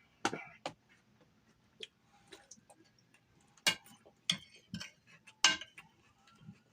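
Eating sounds: a utensil clicking against a takeout food container, about six sharp clicks spread irregularly with quiet gaps between.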